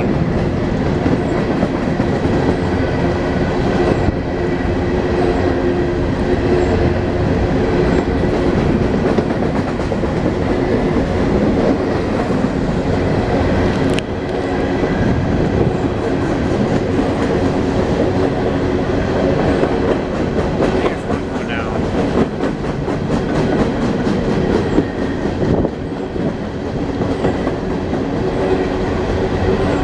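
Train rolling past on the rails: a steady, loud rumble of wheels with a rhythmic clickety-clack over the rail joints.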